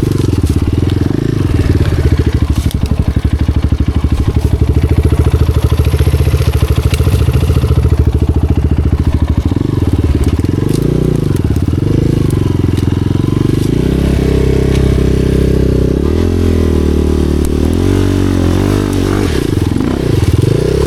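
Dirt bike engine running under throttle, its revs rising and falling repeatedly through the second half.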